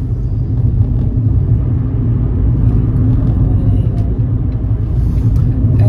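Steady road noise of a car being driven: a low engine and tyre rumble.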